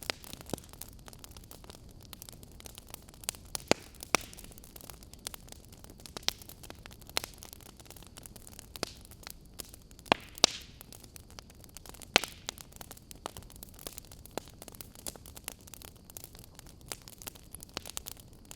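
Wood fire crackling: irregular sharp pops and snaps over a steady soft hiss, with a few louder pops scattered through.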